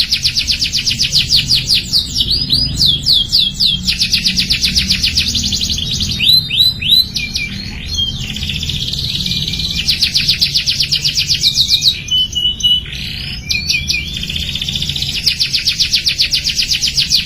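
A young canary singing a continuous song of fast rolling trills broken by downward-sliding whistled notes and short held tones. A steady low hum runs underneath.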